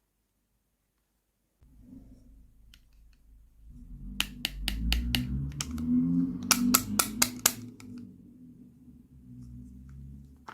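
Hands handling a toy and its packaging: low rubbing and rustling that starts about one and a half seconds in, with two quick runs of sharp clicks and taps, about half a dozen each, around four and seven seconds in.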